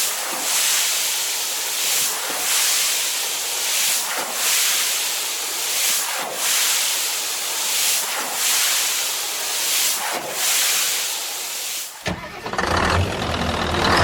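A loud hiss with almost no low sound, swelling and easing about every two seconds, that cuts off about twelve seconds in; a low rumbling sound starts right after.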